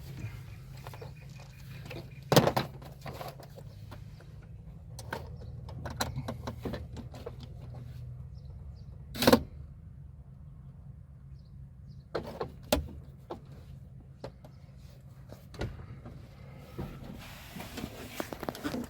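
Tools clicking and knocking against metal in short, separate strikes as a stuck screw on a throttle position sensor is worked at, with the loudest knocks about two seconds in and about nine seconds in, over a low steady hum.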